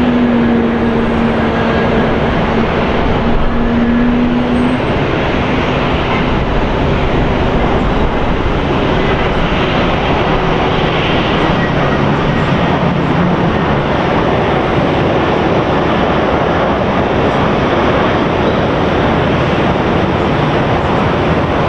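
Steady, loud roar of airliner jet engines, with a faint hum that fades out about five seconds in.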